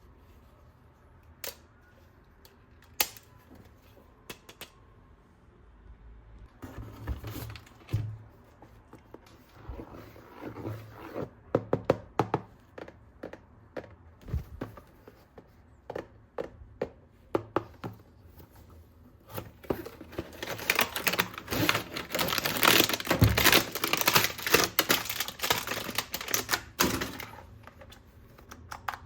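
Hard plastic toy parts being handled: scattered sharp clicks and knocks, then a dense stretch of rapid rattling clatter near the end.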